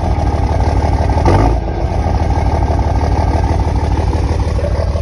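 Exhaust of a 5.9 Cummins inline-six turbo diesel idling, with a brief louder swell about a second and a half in. The idle is rough: number 6 cylinder is misfiring.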